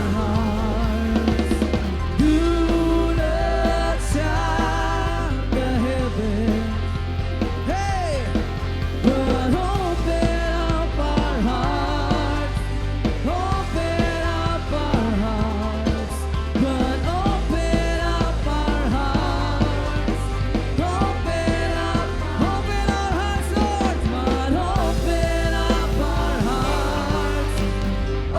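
Rock worship band playing, with drum kit and bass under a lead melody line that wavers and bends in pitch; no words are sung.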